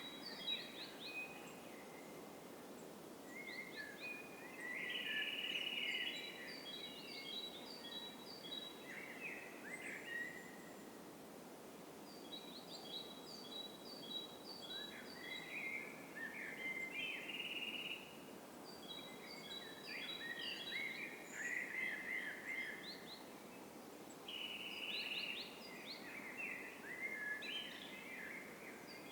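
Songbirds singing in woodland: short phrases of quick chirps and trills recur every few seconds over a steady low background hiss.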